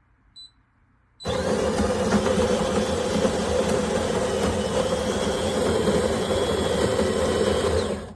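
A short high beep, then the De'Longhi Dinamica's built-in burr grinder starts about a second in and grinds beans steadily for about seven seconds before cutting off.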